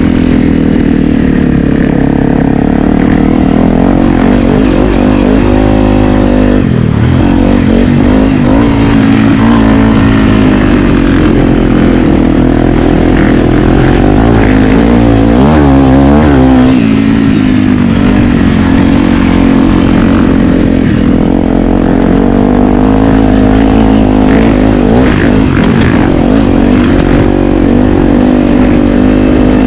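Honda CRF250L dirt bike's single-cylinder four-stroke engine running loud under riding, its pitch rising and falling with the throttle and gear changes.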